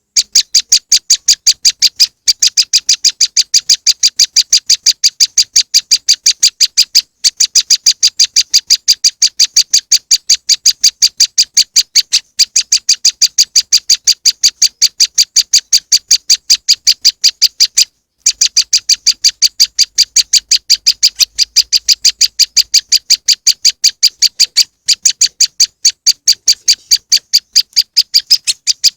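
Prenjak lumut bird-lure call: a loud, fast, evenly repeated run of sharp high chirps. The runs break off for a moment every five or six seconds and start again.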